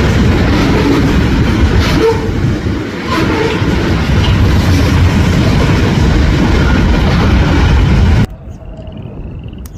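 Freight train rolling past close by, a loud steady rumble of wheels on rail with a few brief squeals. A little over eight seconds in it cuts off suddenly to a much quieter outdoor scene with short high chirps.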